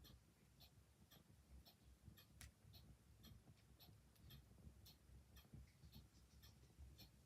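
Faint clock ticking steadily, about two ticks a second, over the low rumble of a quiet wood fire, with one sharper crackle about two and a half seconds in.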